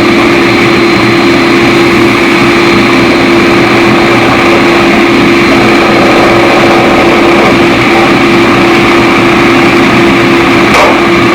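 Forge running steadily and loudly: an unbroken roar with a steady hum through it. There is one short sharp tick near the end.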